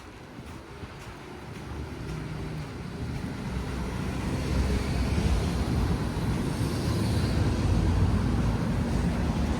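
A large vehicle on a snowy city street, a low rumble with tyre hiss that builds over the first few seconds and then stays loud.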